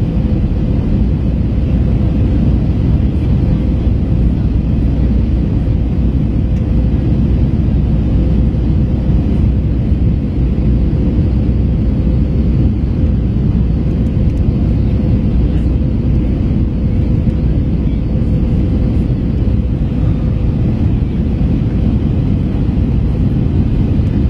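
Steady drone of an Airbus A321's engines and airflow heard inside the cabin in flight on approach, deep and even, with a faint steady hum running through it.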